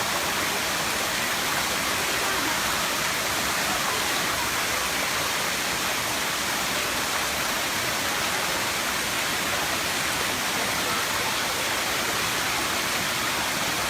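Seventh-tier cascade of Erawan Falls, water rushing in a steady, even roar of falling water with no change in level.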